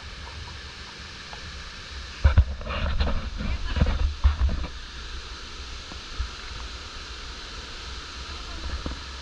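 Steady rush of a mountain stream. About two seconds in, a couple of seconds of close rustling, knocks and rumbling on the microphone break in, the loudest part.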